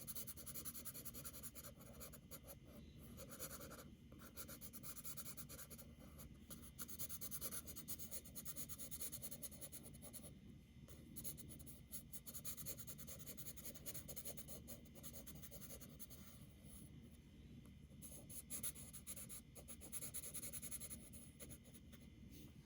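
Medium charcoal pencil shading lightly on drawing paper: a faint, scratchy rubbing of quick back-and-forth strokes, with brief pauses between runs of strokes.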